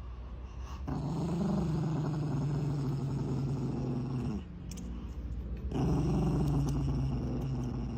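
Chihuahua growling in two long, steady growls, the first starting about a second in and the second a little before the end.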